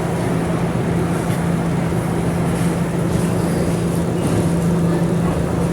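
R211 subway car running between stations, heard from inside the car: steady rolling rumble with a constant low hum.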